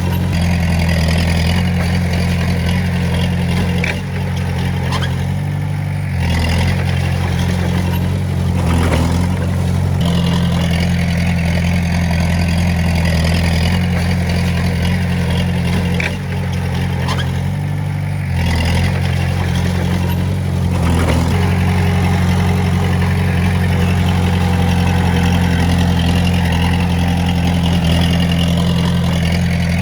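Diesel engine of a Komatsu D20A crawler bulldozer running under work, steady and loud, with brief changes in engine note several times as the load shifts.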